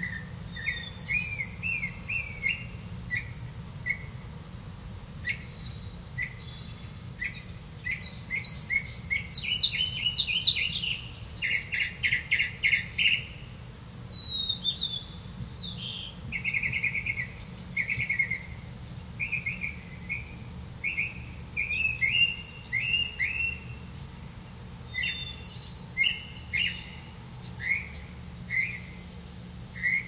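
Small birds chirping in runs of short, high chirps. The loudest, quickest bursts come about a third of the way in and again around the middle.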